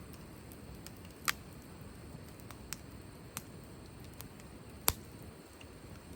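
Wood fire in a fire stand crackling: a steady low rush with scattered sharp pops, the two loudest about a second in and near five seconds.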